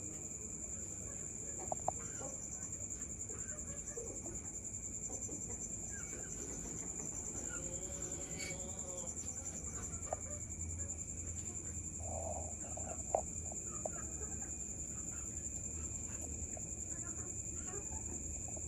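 A steady high-pitched chorus of crickets, with occasional short bird calls and clucks over it and a few sharp clicks.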